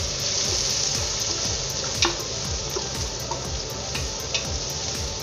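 Onions and chopped tomato sizzling in an aluminium pot, stirred with a wooden spoon that knocks against the pot a few times, the sharpest knock about two seconds in.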